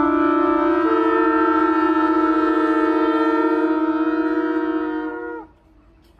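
Shofar (ram's horn) sounding one long held blast that sags in pitch and cuts off about five seconds in; another blast begins at the very end.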